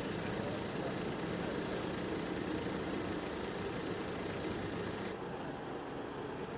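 Steady rumble of a running vehicle engine, with no distinct events; the higher hiss drops away about five seconds in.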